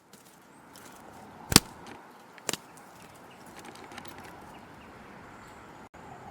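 Outdoor background noise with two sharp knocks about a second apart, the first much louder than the second.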